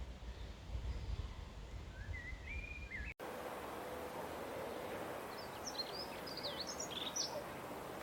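Small songbirds chirping: a short rising phrase near three seconds in, then a quick flurry of high chirps a few seconds later, over steady outdoor background noise. The background changes abruptly about three seconds in, from a low rumble to an even hiss with a faint hum.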